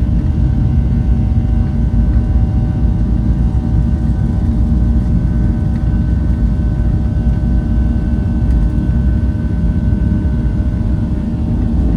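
Boeing 737 jet engines at takeoff power: a steady heavy rumble with several steady whining tones above it, one higher whine strongest in the middle stretch.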